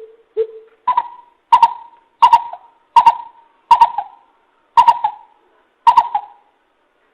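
Coucal (bìm bịp) calling: a series of hollow, hooting notes, the first two lower and the rest a step higher, about one every two-thirds of a second, spacing out a little near the end. It is a recorded lure call used to draw the bird in.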